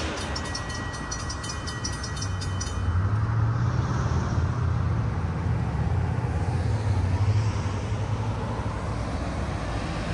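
Narrow-gauge train running past: an even, fast clicking for the first few seconds, then a steady low rumble that grows louder about three seconds in.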